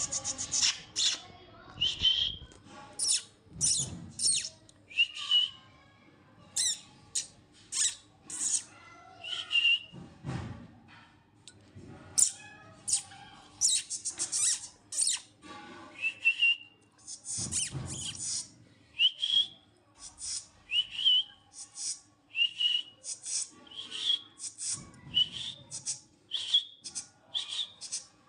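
Lovebirds giving dozens of short, sharp chirps and squawks in quick succession, many with a brief rising whistle-like note. A few soft low thumps come in between.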